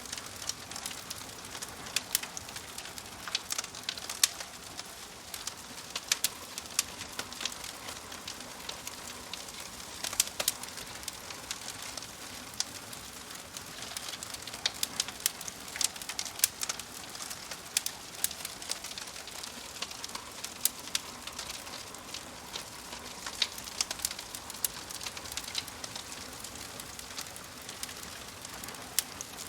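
Wood fire crackling: a steady soft hiss with frequent sharp pops and snaps at irregular intervals, a few much louder than the rest.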